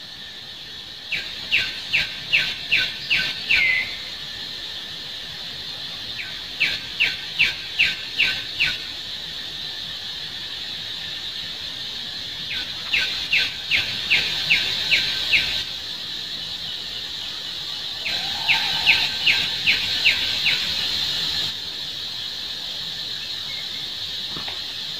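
A bird calling in four bouts, each a quick run of about seven short high notes at roughly four a second, over a steady high drone of insects.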